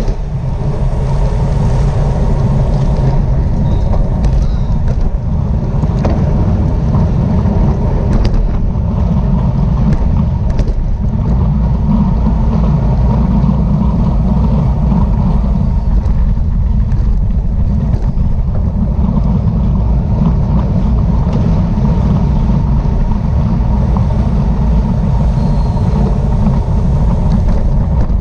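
Steady, loud wind rushing and buffeting over a microphone carried at speed during a bicycle race.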